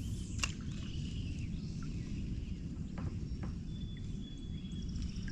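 Outdoor riverside ambience: a steady low rumble with faint high bird calls over it and a few light clicks or knocks.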